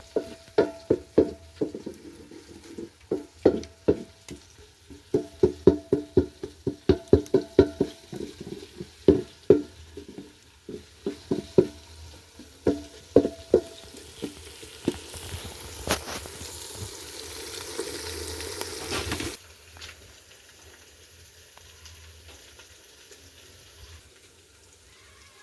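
A metal spoon stirring in a cooking pot, knocking against the pot with a short ringing clang several times a second, with pauses between runs. After about 15 seconds a hiss of sizzling rises for a few seconds and cuts off suddenly.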